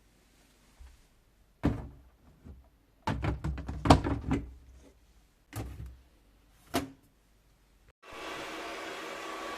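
Household handling knocks and clatter, a quick run of them about three to four seconds in, then an electric appliance motor switches on near the end and runs with a steady hum.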